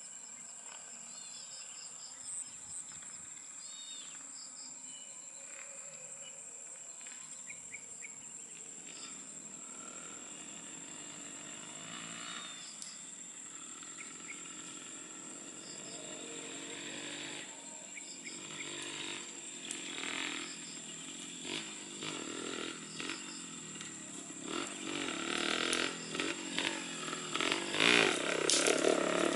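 Rainforest ambience: a steady high insect drone and scattered bird chirps. Over the last several seconds a motorcycle engine grows louder, uneven and rising.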